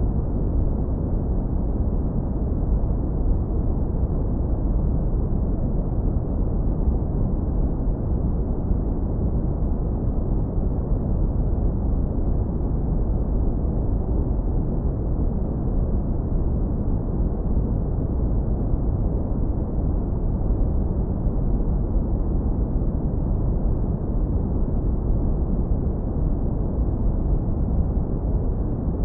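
Continuous deep brown noise, low-pass filtered to leave only a warm, smooth low rumble, steady in level with no changes.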